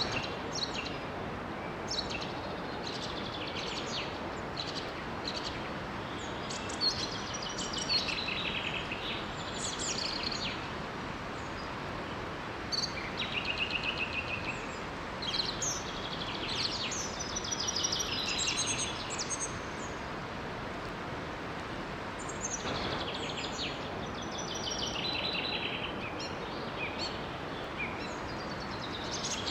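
Several birds chirping and singing in short trills, over the steady rush of a small waterfall.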